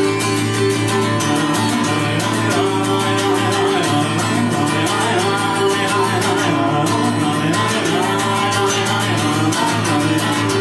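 Live song with a strummed acoustic guitar, playing steadily between sung lines.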